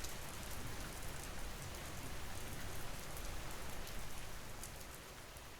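Steady rain falling, with scattered sharp drop ticks; it begins to fade out near the end.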